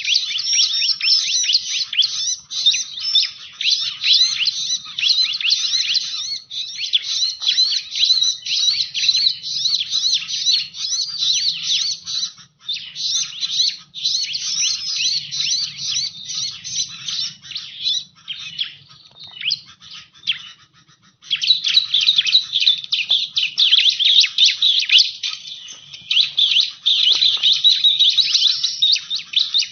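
Bar-winged prinia (ciblek) song played as a lure call: a dense, rapid run of high chirps and trills. It breaks off briefly about two-thirds of the way through, then resumes.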